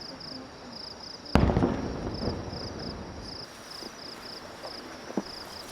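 A single firework shell bursting about a second in: a sharp bang followed by a rumbling echo that dies away over a second or so, with a small pop near the end. Insects chirp steadily in short, rapid high-pitched pulses throughout.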